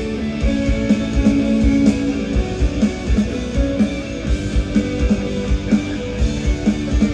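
Live rock band playing an instrumental passage: electric guitar chords over a steady kick-drum beat, with no vocals.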